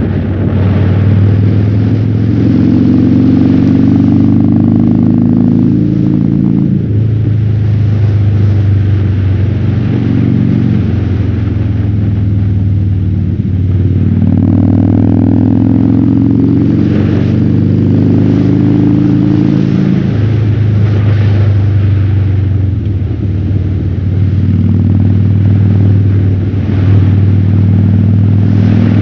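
Harley-Davidson Fat Bob's V-twin running through a KessTech ESM3 exhaust in its quieter legal mode, heard from the rider's helmet with wind rush. The engine pulls up in revs twice, about two seconds in and again around the middle, and settles back between them.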